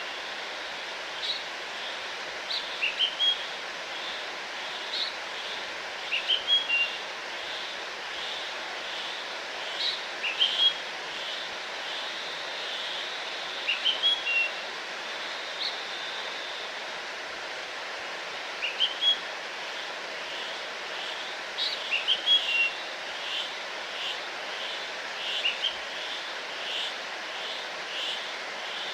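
Steady rush of a waterfall, with a small songbird repeating short, high chirping phrases every few seconds over it.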